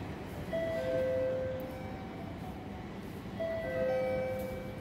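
Electronic station chime: a short phrase of a few overlapping bell-like notes, played twice, over a steady background hum.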